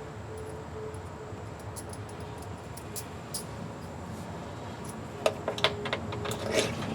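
Small metal parts and hand tools clinking as a valve body bolt and washer are handled: faint scattered clicks, then a quick irregular cluster of sharper metallic clicks near the end.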